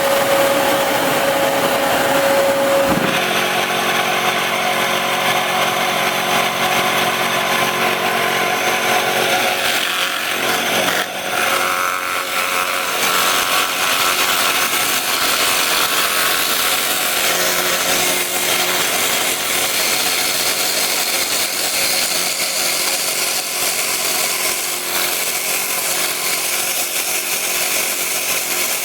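Lathe running with a cutting tool shaping a spinning wooden pencil-popper lure blank. The motor's steady hum is joined about three seconds in by the rough, continuous scraping of the tool cutting the wood.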